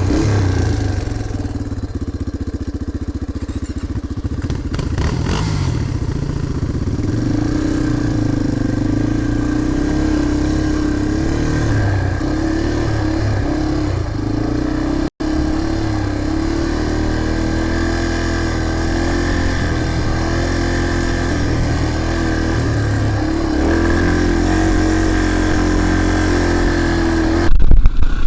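Dirt bike engine running while being ridden along a trail, its pitch rising and falling with the throttle. The sound drops out for an instant about halfway and gets louder just before the end.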